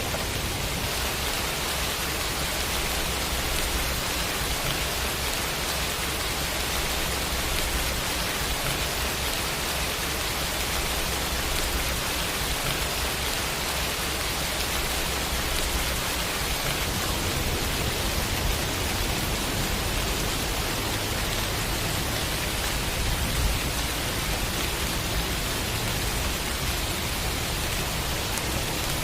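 Steady rain sound effect: an even hiss of rainfall.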